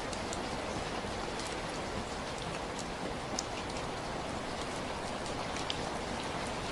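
Steady rainfall, a constant hiss with scattered sharper drips of individual drops landing close by.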